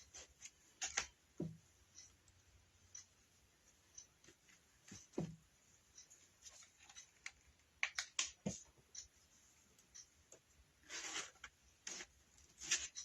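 Faint handling noises: scattered light clicks and taps with a soft rustle about eleven seconds in, as coffee-dyed muslin is worked and twisted around a wire wreath form.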